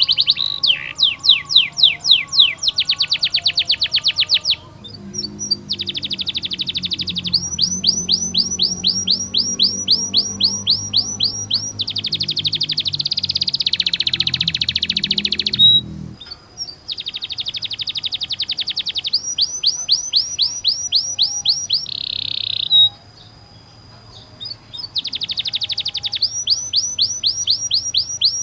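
Domestic canary singing long rolls: runs of very fast repeated high notes, each run lasting a few seconds, with short breaks between them.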